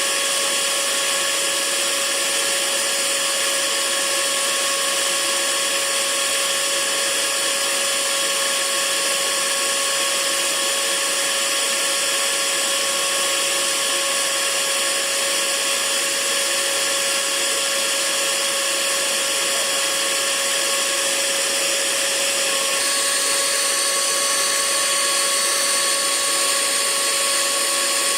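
Hair dryer running steadily: a constant rush of air with a steady motor whine. About 23 seconds in, the whine's tone shifts slightly.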